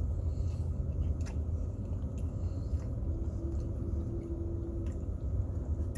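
Steady low rumble of a car idling, heard inside the cabin, with a few faint clicks and rustles of someone eating a messy sandwich.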